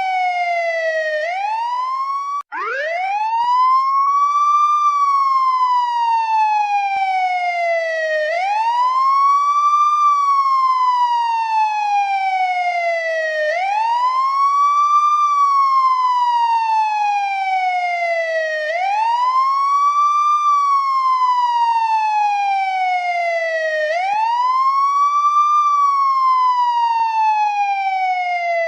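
Police escort siren wailing: each cycle swoops up quickly and then slides slowly down in pitch, repeating about every five seconds. About two and a half seconds in it cuts out for an instant and restarts from a low pitch.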